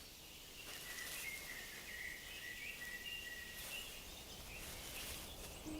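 Faint outdoor forest ambience: a soft hiss with thin, high, drawn-out bird calls for a few seconds.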